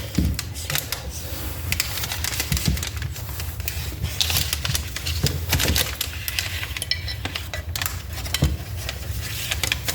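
Small metal parts of a Toyota 4A-FE distributor clicking and clattering as they are handled and fitted together by hand, with many irregular light clicks over a steady low hum.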